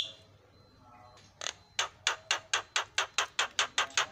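Javan myna giving a rapid run of short, sharp clicking notes, about four to five a second, starting about a second and a half in after a faint soft call.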